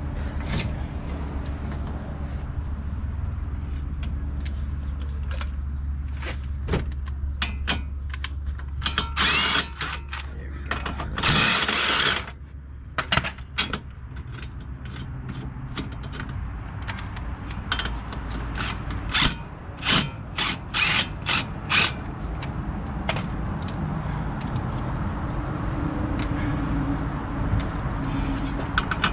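Hand tools clicking and clanking on the Prius's strut-mount nuts: a ratchet wrench turning and metal tools knocking. The clicks come in a dense cluster near two-thirds of the way through. A steady low hum runs underneath and stops about twelve seconds in, just after a brief loud rush of noise.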